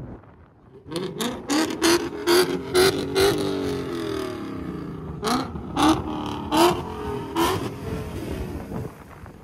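A drift car's engine revving hard, its pitch climbing and falling, with sharp cracks at the peaks: a quick run of them in the first few seconds and a few more later.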